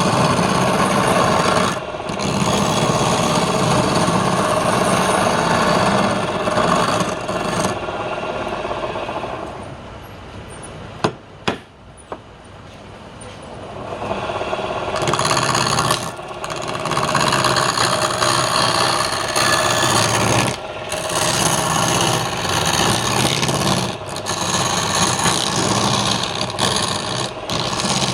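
Turning tool scraping and cutting palm wood spinning on a lathe. About ten seconds in, the cutting drops away for a few seconds of quieter running with two sharp knocks, then resumes.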